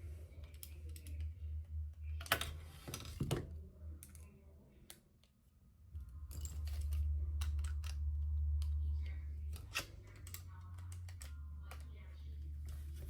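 LEGO pieces clicking and rattling as they are handled and snapped together, in irregular small clicks with a few louder clusters, over a low steady hum.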